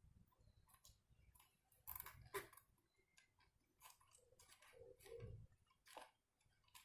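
Faint, irregular clicks and taps of small speedometer parts being handled and fitted, with a cluster of taps about two seconds in and another near five seconds.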